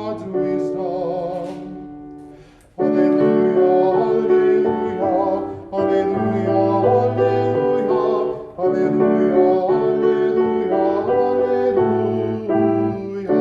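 A solo singer with vibrato, accompanied by piano, singing a psalm setting in long held phrases. The music fades into a brief pause about two and a half seconds in, then comes back at full level.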